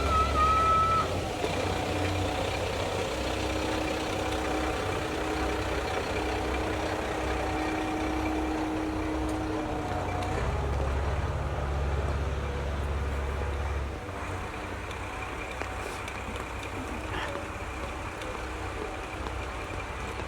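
Diesel railcar of the Sanriku Railway: a short steady horn blast ends about a second in, then the engine runs with a steady low rumble as the train moves off. The rumble drops away about 14 seconds in.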